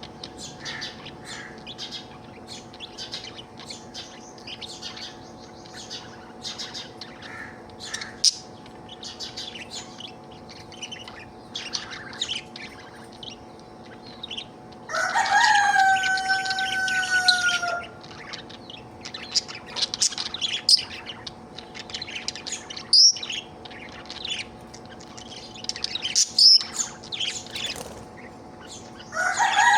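Budgerigar chattering and warbling in quick, busy chirps. About halfway through and again at the very end, a much louder drawn-out call lasts about three seconds, falling slightly in pitch. A faint steady hum sits underneath.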